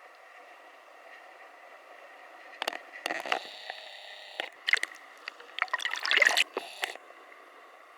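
Steady hiss of water, broken in the middle by a few seconds of loud, irregular crackling and splashing bursts.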